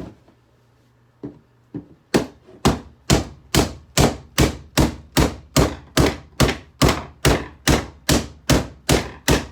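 A steady series of hard knocks, about two a second, each fading quickly, starting about two seconds in.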